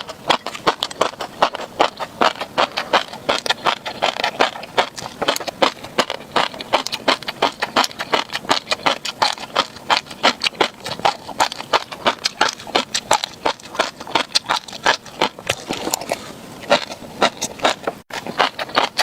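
Close-miked chewing of crunchy tobiko (flying fish roe), the tiny eggs popping and crackling rapidly between the teeth, many pops a second. It breaks off for an instant near the end.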